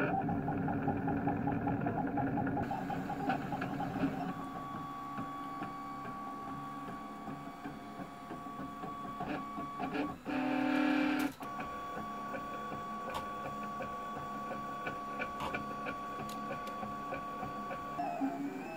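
Printrbot Plus 3D printer's stepper motors running a print: steady whining tones that shift as the moves change, dotted with small clicks, with a louder, fuller buzz lasting about a second roughly ten seconds in.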